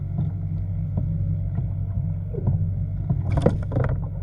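Steady low rumble of water and wind around a kayak at sea, with a short burst of sharp, noisy clatter about three seconds in.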